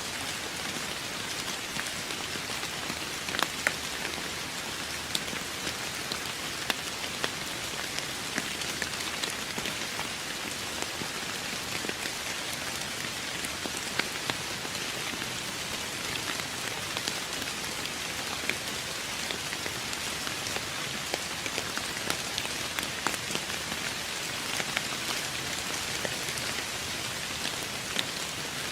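Steady rain falling on a surface: an even hiss with many distinct drops ticking sharply through it.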